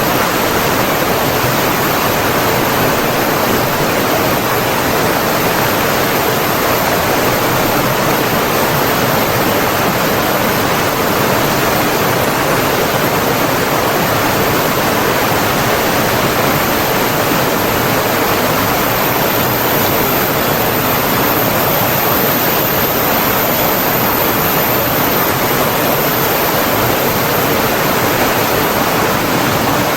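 Running water rushing steadily, a continuous even wash of noise with no breaks or changes.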